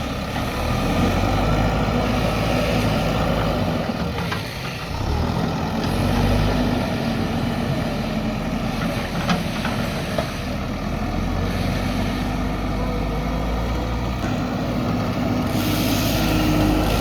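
JCB backhoe loader's diesel engine running under load while digging and loading soil, its note rising and dipping with the work. A couple of sharp clanks near the middle.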